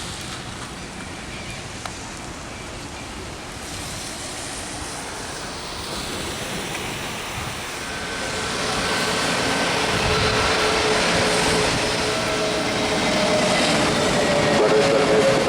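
Steady hiss of heavy rain, then a jet airliner's engines growing louder from about halfway through, with a steady whining tone.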